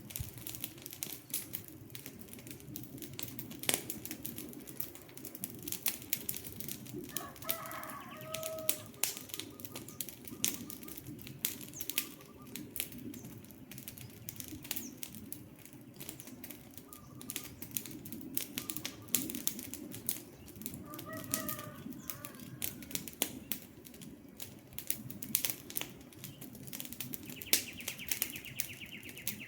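Campfire crackling, with dense irregular pops over a steady low rush of burning wood. A bird calls several times in the background, and a fast high trill comes near the end.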